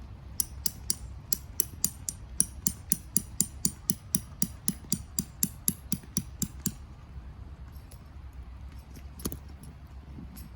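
A fast, even series of sharp clicks, about four a second, lasting about six seconds, then a single click near the end.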